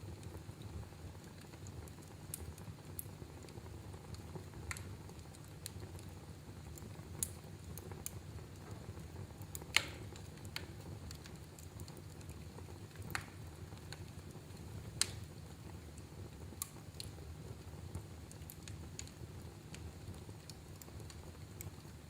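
Wood fire crackling in a fireplace: irregular sharp pops and snaps over a steady low rumble of the burning, with the loudest snaps about ten and fifteen seconds in.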